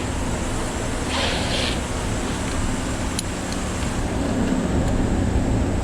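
Several electric shop fans running, a steady whoosh with a low hum. A short hiss comes about a second in, and a few faint light ticks later on.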